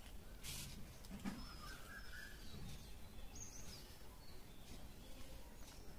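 Faint birds chirping in the background over a low, steady ambient hum, with a few thin wavering whistles and no speech.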